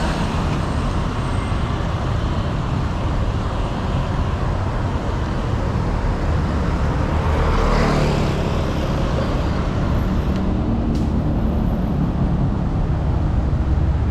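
City road traffic heard from a bicycle: a steady rumble of engines and tyres, with one vehicle swelling past about eight seconds in.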